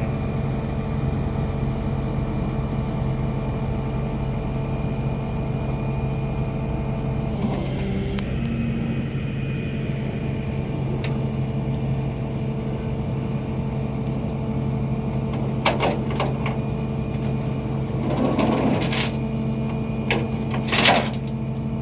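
A tow truck's engine running steadily with a constant hum. There is a short hiss about seven and a half seconds in, and a few brief knocks and rustles near the end.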